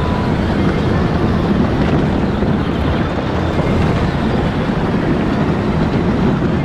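Power Wheels ride-on car driving, heard from on board: a steady, deep drive noise from its motors, gears and wheels, running without a break.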